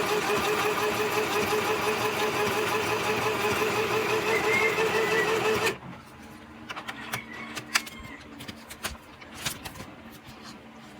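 Sew Simple K1127 mini sewing machine running at its low speed setting, stitching steadily for about six seconds and then stopping abruptly. A few light clicks follow.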